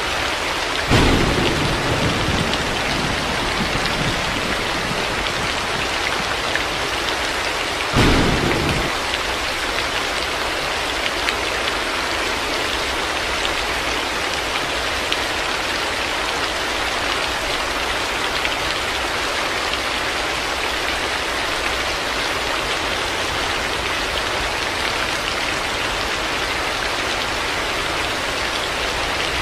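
Heavy rain falling steadily. Thunder breaks in twice, once about a second in, rumbling away over a couple of seconds, and again, more briefly, about eight seconds in.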